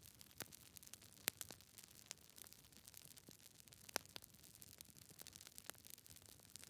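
Wood fire burning in a fireplace: logs crackling with irregular sharp pops over a soft hiss, two louder pops a little over a second in and at about four seconds.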